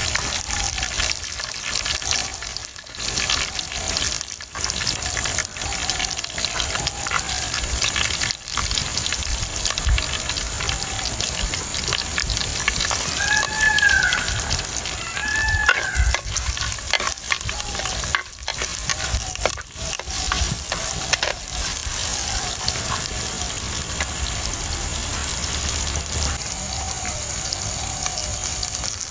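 Food frying in hot oil in a pan, a steady sizzle with stirring. Two short rising-and-falling chirps, like a bird's, sound about halfway through.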